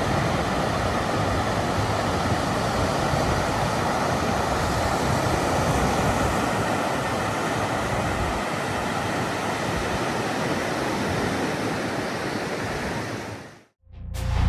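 Surf washing onto a beach: a steady rushing that fades out near the end.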